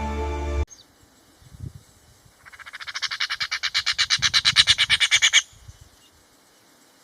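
A bird's fast rattling call, a quick train of about ten clicks a second that starts a couple of seconds in, grows louder for about three seconds and then stops abruptly.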